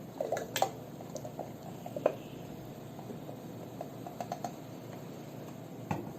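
Scattered light clicks and taps of cream cartons being handled and emptied into a blender jar, with a small cluster near the start and another about four seconds in.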